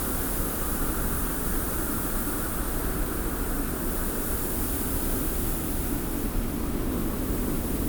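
Steady wind with blowing sand: a continuous, even rushing noise with a hiss high up and a low rumble beneath.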